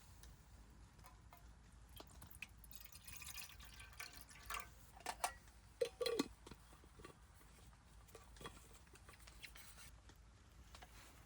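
Quiet liquid sounds with scattered light clicks and taps from camp cookware while a caramel café au lait is made, with a few louder splashy sounds around the middle, one dropping briefly in pitch.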